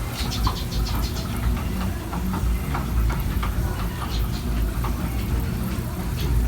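Chopped chilies and garlic frying in oil, with scattered quick pops and crackles over a steady low rumble.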